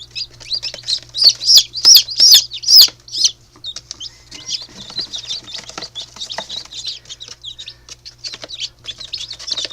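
Newly hatched chicks peeping constantly, many short high calls overlapping, loudest in the first three seconds.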